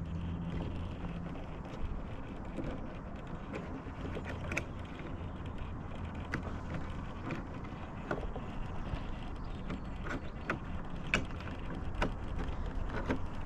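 Traxxas TRX4 1/10-scale RC crawler's electric motor and gearbox whirring steadily at low speed, with scattered clicks and knocks as it crawls over rough ground.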